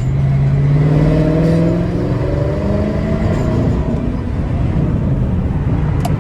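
Straight-piped Chrysler 300S Hemi V8 exhaust, rising in pitch as the car accelerates over the first few seconds, then easing off to a steady lower drone while cruising.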